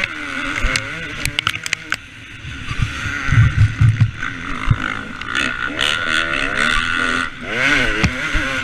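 KTM 250 SX two-stroke motocross bike being ridden hard, its engine revving up and falling back again and again through the gears. A few heavy low thuds come about three to four seconds in.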